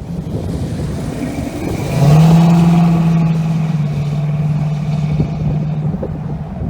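Ship's horn sounding one long, low blast of about four seconds, starting about two seconds in.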